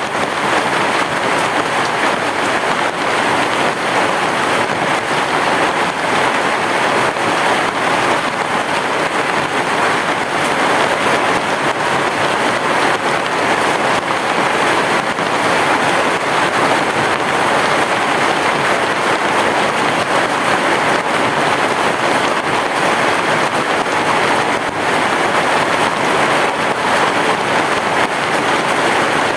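Heavy rain falling steadily, an even hiss with no break and no thunder.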